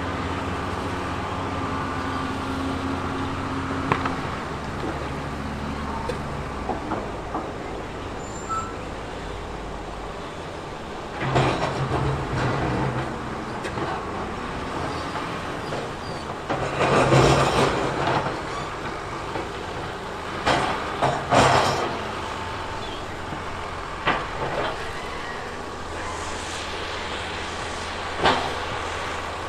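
Diesel earthmoving machinery running steadily, with several loud bursts of rock clattering and scraping, the longest about halfway through.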